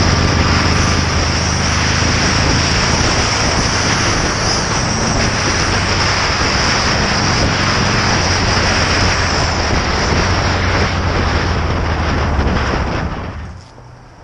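Harley-Davidson 883's air-cooled V-twin engine running steadily at road speed under heavy wind rush. The sound drops off sharply about thirteen seconds in.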